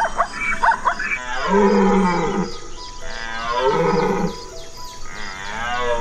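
Two long, moo-like lowing calls from a large hoofed animal, each falling in pitch at the start, then a shorter wavering call near the end, over background music with a steady beat.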